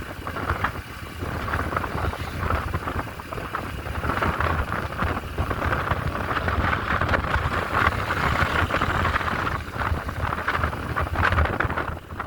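Motorcycle running on the road during a ride, its low engine rumble mixed with rushing, uneven wind on the microphone.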